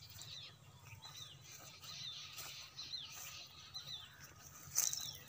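A bird calling over and over with short chirps that slide down in pitch, about one or two a second, with a brief sharp sound near the end.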